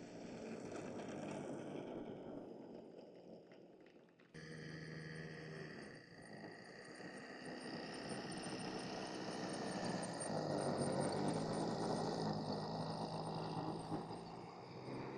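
Radio-controlled model aircraft engine running as the model flies, with steady tones that grow louder toward the middle of the second part and then fade as it passes; the sound changes abruptly about four seconds in.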